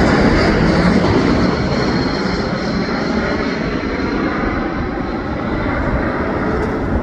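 Airliner on final approach flying past: dense engine noise with a thin high whine that falls slightly in pitch as the sound slowly fades.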